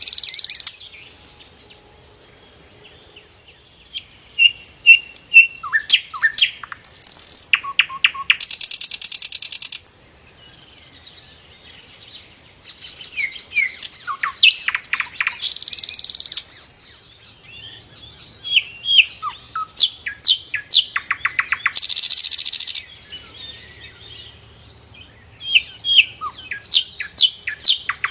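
Sikatan londo flycatcher singing: repeated phrases of quick, sharply down-slurred whistled notes, each ending in a dense, high buzzy trill, coming about every seven seconds with short pauses between.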